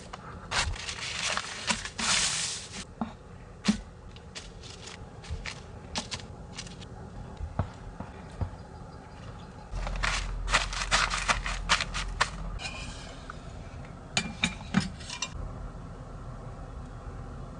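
Handling noises: rustling bursts and scattered clicks and knocks of objects being moved, over a faint steady hum.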